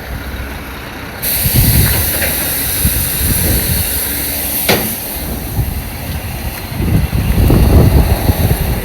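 Semi truck's air brake system hissing, starting suddenly about a second in as the trailer brakes are released, over the low rumble of the diesel engine, which swells twice; one sharp click near the middle.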